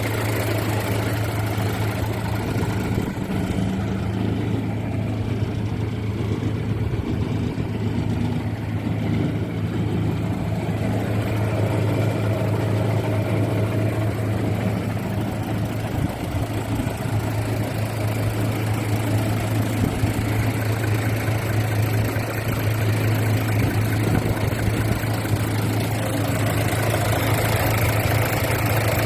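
Mitsubishi Fuso Fighter's 6D17 inline-six diesel engine idling steadily.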